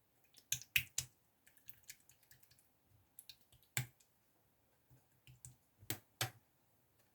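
A scatter of sharp clicks and taps, the loudest in a quick cluster about half a second to one second in, then single ones near four seconds and twice near six seconds, with softer ticks between.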